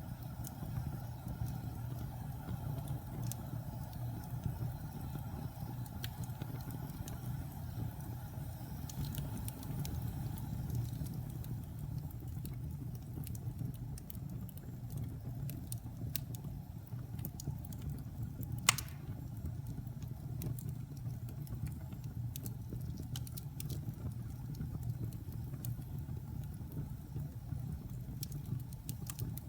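Wood fire burning in a fireplace: a steady low rumble with scattered small crackles, and one sharp loud pop about two-thirds of the way through.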